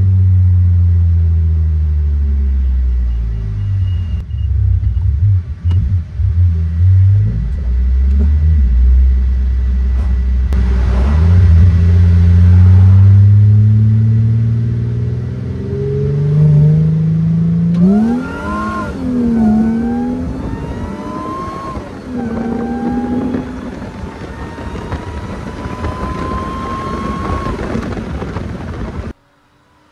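Supercharged Mercedes SLK320's M112 3.2-litre V6 at full throttle, revving up through the gears, its pitch climbing and then dropping back at each shift. The engine is loud at first and gets quieter over the second half as the car pulls away.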